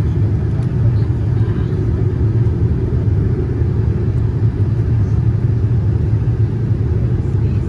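Steady, loud low rumble of a Boeing 787-9 with GEnx engines, heard from inside the passenger cabin.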